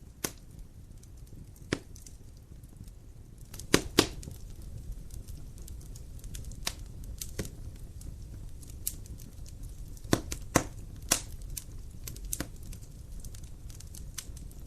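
Wood fire crackling in a fireplace: irregular sharp pops and snaps over a low steady rumble. The loudest pops come in clusters about four seconds in and again around ten to eleven seconds in.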